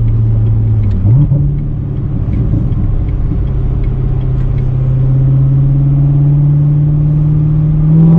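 Corvette's V8 engine running under way. Its note steps up briefly about a second in, then rises slowly and steadily as the car gathers speed.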